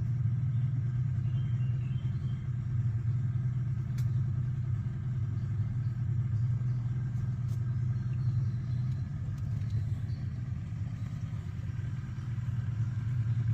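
A boat's engine running steadily at an even speed, a constant low hum.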